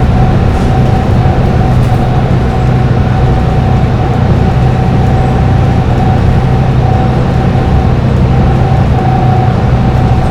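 Dennis Trident double-decker bus engine running at highway cruising speed, with a steady low drone and a thin, higher steady whine above it; the pitch holds level with no change of gear or throttle.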